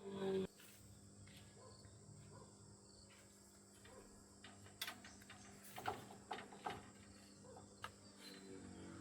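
Faint steady insect chirring, with a short louder sound right at the start and a handful of sharp clicks or knocks a few seconds in.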